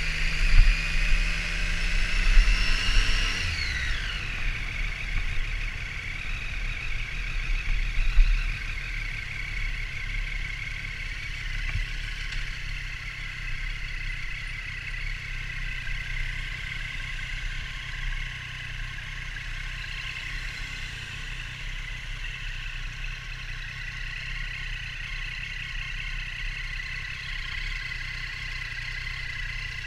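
Triumph Street Triple R's inline-three engine revving up with a rising whine for the first few seconds, then dropping off sharply and running on at a steadier, lower pitch.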